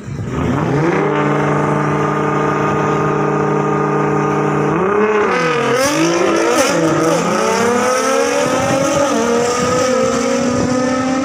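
Drag car's engine held at steady high revs on the start line, then revved up and down several times about halfway through, its pitch climbing slowly toward the end.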